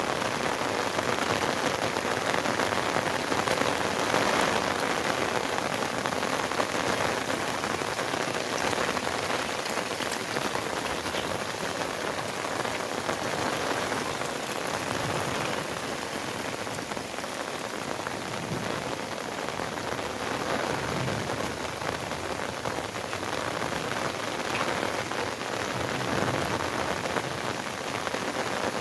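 Steady rain falling, an even hiss made up of many small drops striking.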